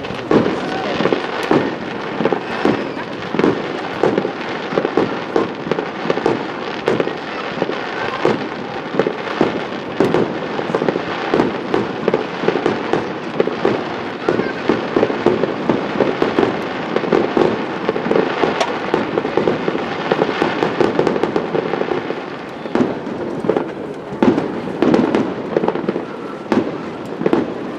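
Fireworks going off in rapid succession: a dense, continuous run of overlapping bangs and crackles from rising comets and shells bursting overhead, easing briefly about three-quarters of the way through.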